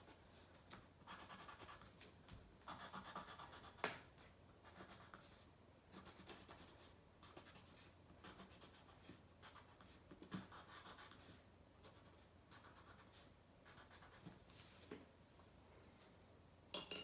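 Faint scratching of a pencil on paper, drawn in a series of short separate strokes as sun rays are sketched out, with a small tap now and then.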